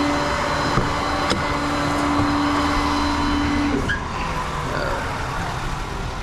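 Tow truck running, with a steady whine over the engine noise that cuts off about four seconds in, leaving a quieter running sound. A couple of light clicks come near the start.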